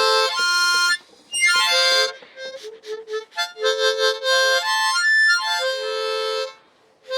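Harmonica playing a slow run of held notes and chords, with short breaks about a second in and near the end.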